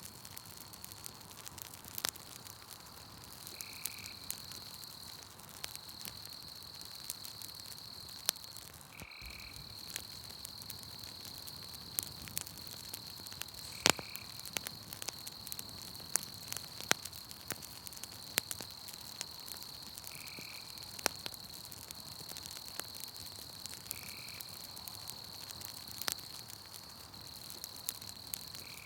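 Wood campfire crackling with scattered sharp pops, one louder than the rest near the middle. Behind it a night insect chorus keeps up a steady high trill, and a short call recurs every few seconds.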